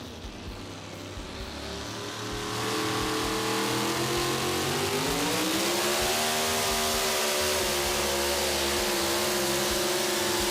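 Super modified pulling truck's engine at full throttle under load during a pull. It grows much louder about two and a half seconds in, and its note rises around the middle and then holds steady.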